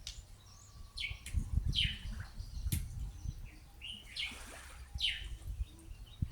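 Bush lark calling: a series of short, high chirps, each sliding quickly downward in pitch and repeated every second or so. There is a low rumble underneath and a single sharp knock about midway.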